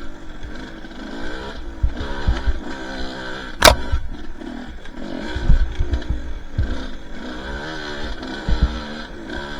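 Two-stroke dirt bike engine revving up and down, with short low thumps and one sharp click about three and a half seconds in.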